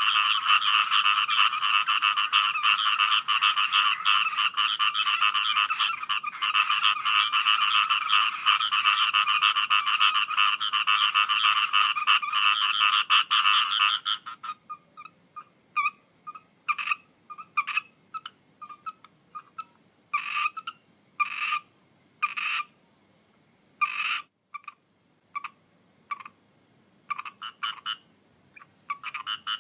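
Frog chorus, many frogs calling densely together, stopping abruptly about halfway through; then only scattered single croaks are heard until the calling builds up again near the end.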